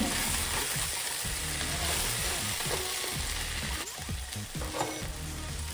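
Brinjal and potato pieces sizzling in hot oil in a kadai while being stirred with a wooden spatula. The sizzle eases somewhat about four seconds in.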